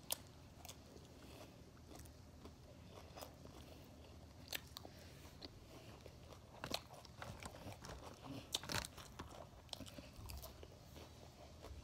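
Close-up chewing and crunching of crisp salad leaves, quiet overall with scattered sharp crunches and clicks.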